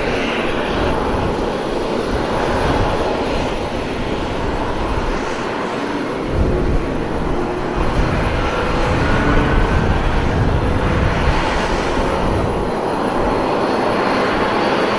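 Aircraft engine noise: a continuous loud rush from a plane flying its display, with faint tones gliding in pitch as it passes.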